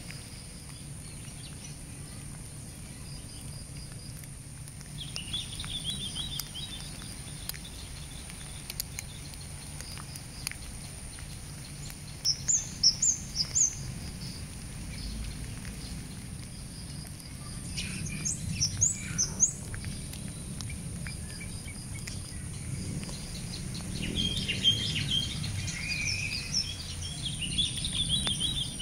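Wild birds calling outdoors: a quick run of four loud high chirps about twelve seconds in, a burst of rising whistled notes past the middle, and busy twittering near the end, over a steady high-pitched hiss and a low background rumble.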